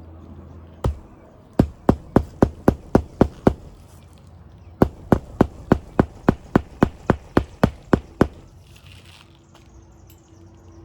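Hammer driving roofing nails flush: a single tap, then two quick runs of sharp strikes at about four a second, the second run of about a dozen blows ending near the end. A soft rustle follows.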